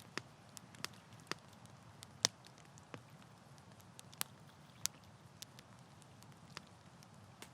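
Wood campfire crackling: irregular sharp pops and snaps of varying strength over a faint steady low background, with the loudest pops about two and four seconds in.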